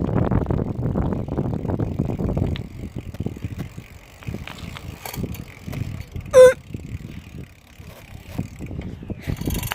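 Bicycle riding: a loud, rattling rumble of the bike and wind on the phone for about three seconds, then quieter with light clicking as the bike rolls on. About six seconds in comes one brief, loud pitched squeak.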